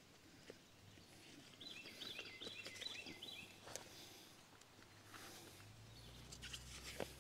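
A small songbird singing a quick run of repeated chirps, starting about one and a half seconds in and lasting about a second and a half, over faint outdoor background noise. A few soft clicks come near the middle and again near the end.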